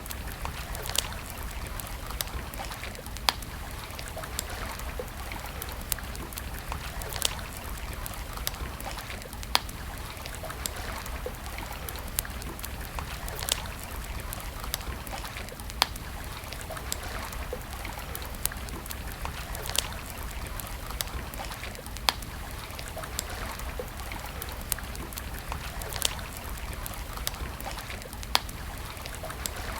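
Campfire crackling, with sharp pops about every two seconds and many fainter ticks over a steady rushing background.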